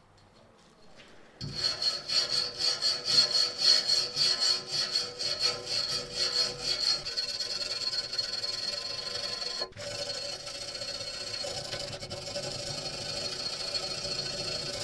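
A motor-driven abrading tool, such as a sander or grinder, working a surface. It starts about a second and a half in and goes in rhythmic strokes of two to three a second. It then runs steadily with a high whine, cutting out for an instant about two-thirds through before going on.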